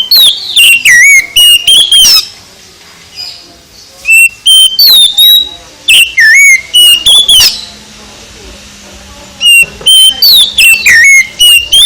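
Oriental magpie-robin (kacer) singing loud bouts of clear whistled phrases that slide up and down, three bouts with short pauses between them.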